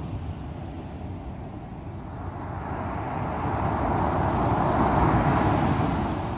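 Ocean surf on a sea coast: over a steady low rumble, a wave builds from about two seconds in, surges loudest a little past the middle, then draws back near the end.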